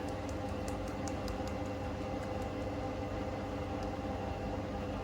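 Hoover Link washing machine's motor and drum turning steadily at low speed, distributing the load before the spin, with a steady motor hum. Several light ticks come in the first couple of seconds.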